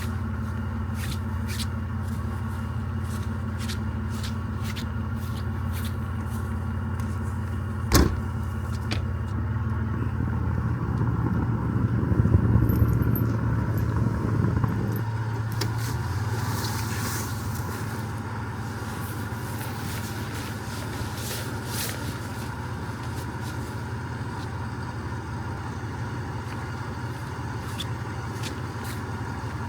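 Recovery truck's engine running steadily, working harder for a few seconds midway as the truck backs up a short distance. A sharp click sounds about eight seconds in.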